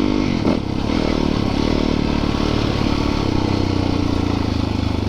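Yamaha YZ450FX's single-cylinder four-stroke dirt bike engine running on the trail. Its pitch drops briefly about half a second in, then holds and climbs again with the throttle.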